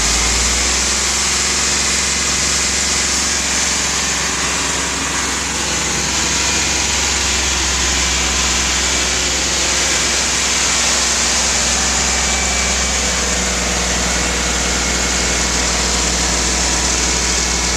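GMC C6500's 8.1-litre gasoline V8 running steadily, with a faint thin squeal from somewhere on the engine.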